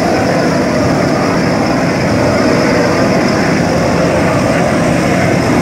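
Furnace heater running with a loud, steady rushing noise.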